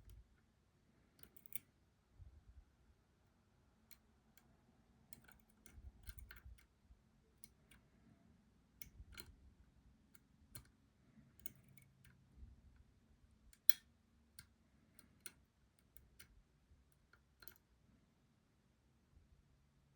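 Lock pick working the pins inside a Robur 2391 safety deposit lock: faint, irregular small clicks with a few low handling bumps, one sharper click a little past the middle.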